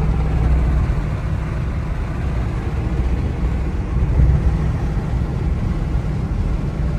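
Car driving along: a steady low engine and road rumble with a slight swell about four seconds in.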